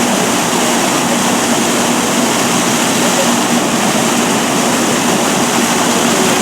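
Water gushing steadily out of a sheared-off fire hydrant as a loud, unbroken rush.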